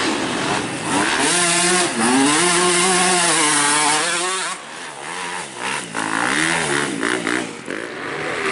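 Motocross bike engine revving hard, its pitch rising and falling for about three seconds, then backing off to shorter, choppier bursts of throttle.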